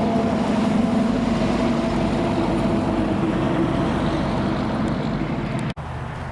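A motor running with a steady hum that sinks slightly in pitch, cut off abruptly near the end, leaving quieter wind noise.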